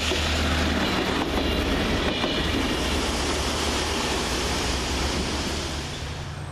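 Network Rail rail-head treatment train, a pair of Windhoff multi-purpose vehicles, running through the station: a steady low engine hum with wheel and rail noise, fading near the end.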